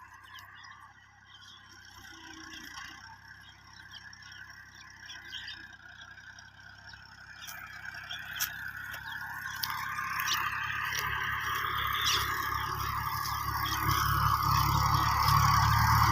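Tractor engine running, growing steadily louder as it draws near, strongest near the end.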